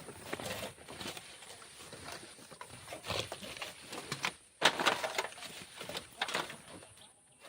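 Hand tool digging and scraping black sand: irregular gritty strokes, the strongest a little over four and a half seconds in.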